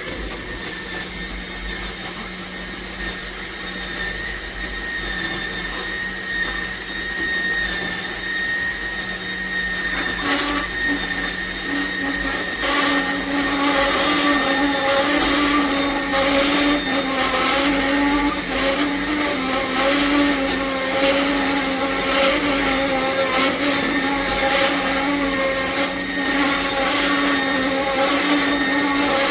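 Cold-press slow juicer's motor starting abruptly and running steadily. From about ten seconds in, a lower hum joins it along with repeated crackling and clicking.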